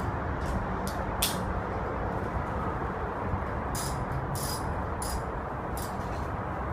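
Irregular sharp metallic clinks and taps of hand tools on scooter parts during disassembly, the loudest about a second in and a quicker run of them in the second half, over a steady background hum.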